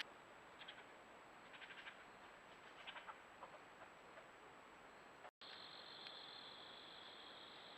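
Faint woodland ambience: a few soft, high chirps in small clusters over the first few seconds, then, after a brief dropout, a steady high insect drone.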